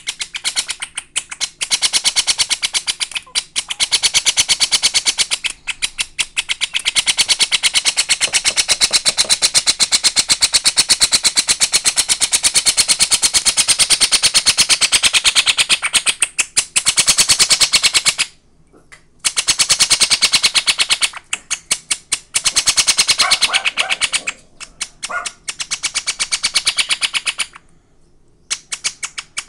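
Princess of Wales parrot chick giving its rapid, pulsing begging calls while being hand-fed formula from a syringe: a fast, even train of pulses that breaks off briefly about two-thirds of the way in and again near the end. The chick is still hungry.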